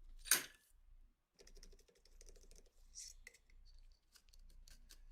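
Small clicks and scratchy scrapes of tools and hands working on a seized Colt M1911 pistol during restoration, with one louder sharp scrape about a third of a second in.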